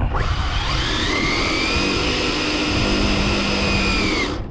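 Electric motor of an RC drag car whining at full throttle: the pitch climbs quickly over the first second, holds steady at high revs, then cuts off suddenly near the end.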